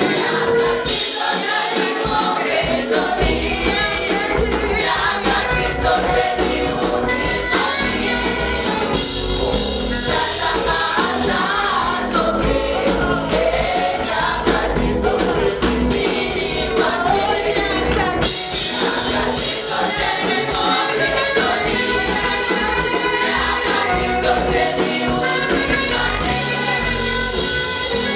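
A vocal group singing a gospel praise song together to a band accompaniment, with a tambourine keeping the beat.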